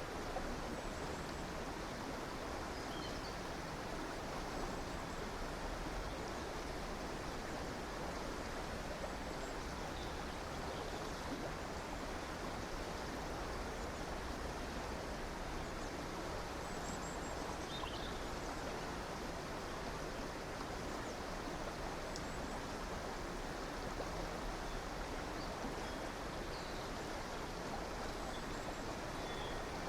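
A river or stream flowing steadily, with a few faint, brief bird calls high above the rush of water now and then.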